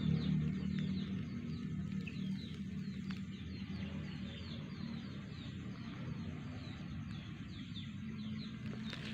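Small birds chirping, one short descending chirp repeated over and over, over a low steady hum.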